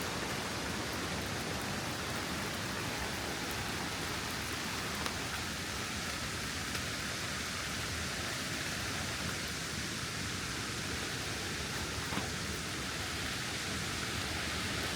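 Steady rush of falling water, an even hiss that holds at one level, with a couple of faint ticks.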